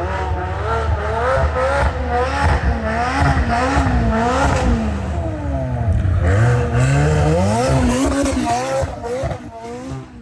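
A sports car engine revving up and down over and over, its pitch rising and falling about once a second under repeated throttle changes, then fading near the end.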